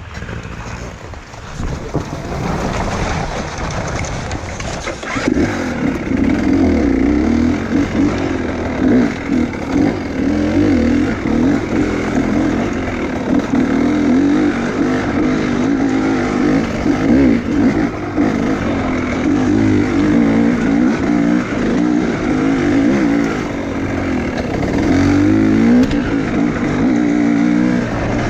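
Enduro motorcycle engine revving up and down without pause as the throttle is worked hard. It gets louder about five seconds in.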